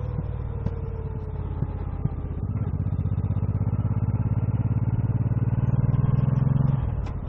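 Motorcycle engine running while riding. It eases off and falls slightly in pitch at first, then gets louder with a rising note as it accelerates from about two and a half seconds in. The note drops briefly near the end.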